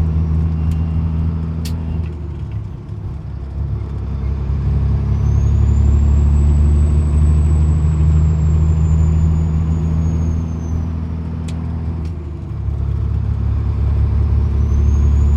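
Peterbilt 379's 550 hp Cat C-15 diesel engine pulling under load. Its steady note drops out and dips in loudness about two seconds in and again near the end, as it is shifted through the gears, then picks back up. A high whistle rises and falls between the two shifts.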